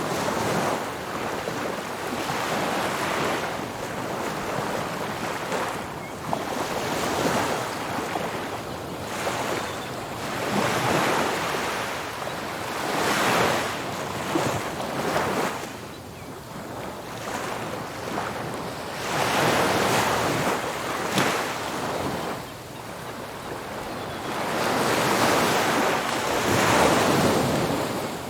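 Ocean surf breaking on a beach: a steady wash of noise that swells as each wave breaks and ebbs between, about every three to five seconds.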